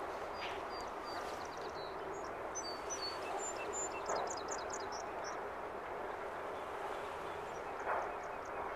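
Birds chirping in short, high notes, many of them in the first half and a few again near the end, over a steady outdoor rush of background noise.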